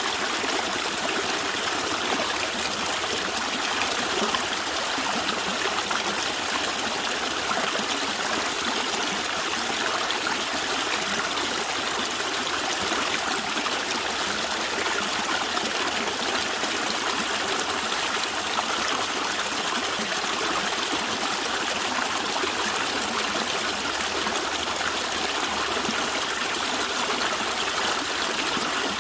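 Stream water flowing and gurgling, a steady, even rush with no breaks.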